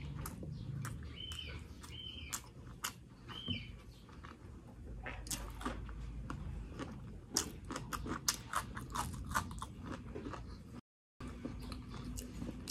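Close-miked eating sounds: wet chewing, lip smacks and small mouth clicks from a mouthful of sisig and fried rice, with crunchy bites into an okra pod about six seconds in.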